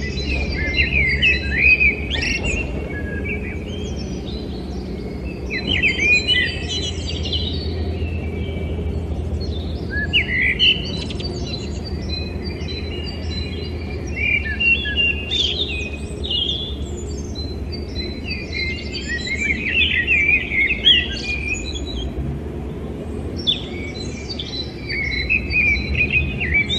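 A songbird singing short phrases of quick chirps and trills, a new phrase every four or five seconds, over a steady low hum.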